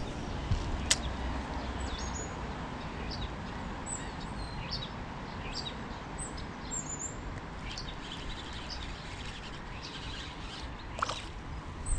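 Small birds chirping in short high calls again and again over a steady outdoor background hiss, with one sharp click about a second in.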